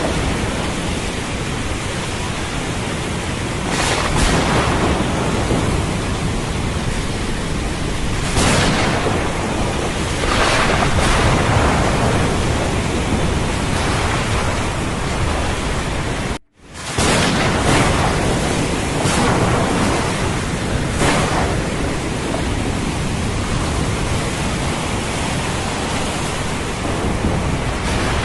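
Thunderstorm ambience: steady heavy rain and ocean surf with a low thunder rumble underneath, swelling and easing every few seconds. The sound cuts out completely for a split second a little past halfway, then resumes.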